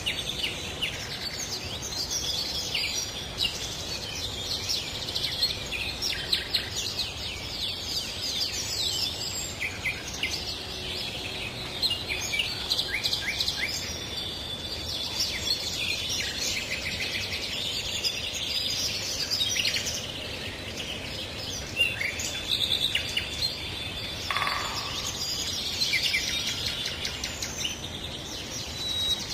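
Dense chorus of many small songbirds chirping and trilling together, the calls overlapping continuously, with one lower call standing out about 24 seconds in.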